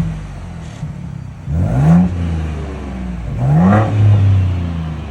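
Ford Bronco Raptor's 3.0-litre twin-turbo V6 in its Quiet exhaust mode, being revved in place: one rev falls away at the start, then two quick throttle blips about two seconds apart, each rising sharply in pitch and settling back toward idle.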